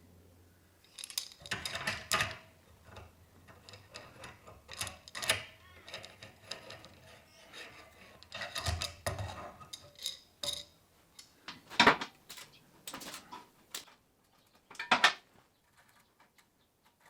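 Irregular clinks and clanks of metal pieces being handled and set down, with a few louder knocks scattered through.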